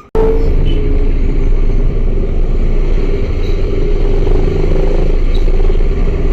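Motorcycle running at speed, its engine a steady drone under heavy wind rumble on the microphone. It cuts in abruptly just after the start.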